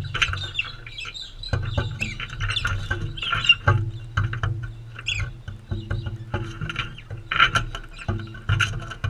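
Galahs feeding: many quick clicks and taps of beaks pecking and cracking seed, mixed with short, soft chattering calls. A steady low hum runs underneath.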